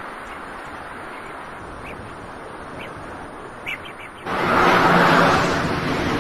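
Steady outdoor background noise with a few faint bird chirps. About four seconds in, the rush of road traffic sets in suddenly and loudly, with a low steady hum.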